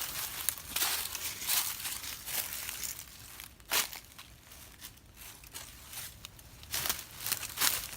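Footsteps crunching through dry fallen leaves, an uneven series of steps with a short pause midway.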